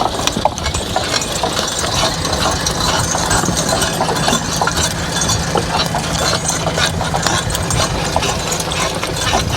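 An engine running steadily, with frequent clicks, knocks and rattling over it.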